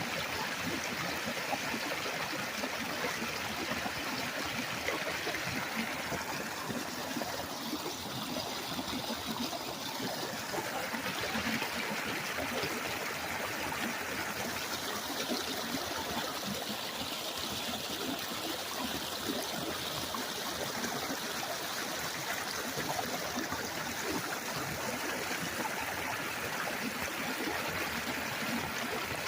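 Small stream running steadily, with a continuous trickling and gurgling of water.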